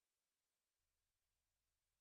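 Near silence: a blank pause in the soundtrack.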